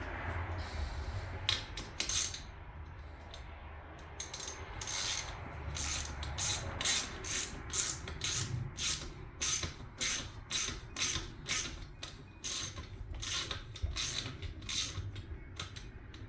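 Ratchet wrench being worked back and forth on a bolt, its pawl clicking in quick, even strokes of about two to three a second that start a few seconds in and run nearly to the end.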